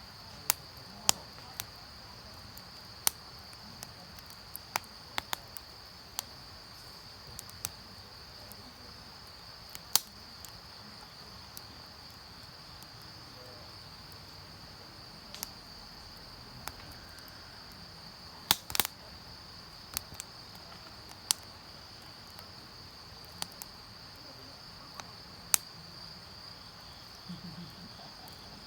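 Wood campfire crackling with sharp, irregular pops, a quick cluster of loud ones about two-thirds of the way through. Under it runs a steady, high insect trill.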